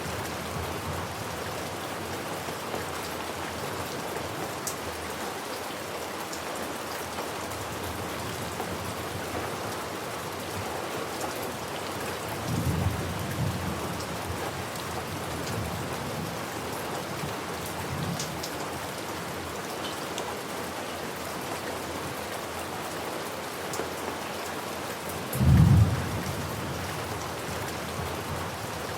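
Steady rain falling, with low rumbles of thunder: one about halfway through, a fainter one shortly after, and the loudest, short one near the end.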